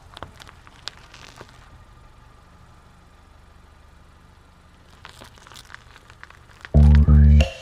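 Faint scattered clicks and crinkling, like small plastic parts or packaging being handled. Loud music with bass and guitar comes in near the end.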